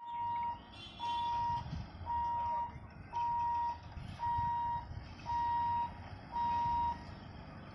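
Electronic warning beeper at a railway level crossing, sounding seven even single-tone beeps about once a second before stopping, over a low rumble.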